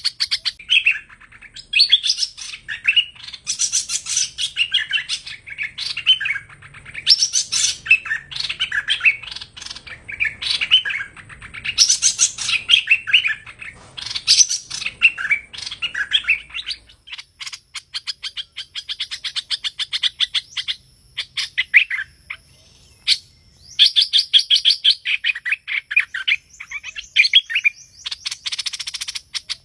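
Song of the hoành hoạch bird in a recording used as a trapping lure: a fast, continuous run of chirps and warbled phrases mixed with quick trains of clicking notes.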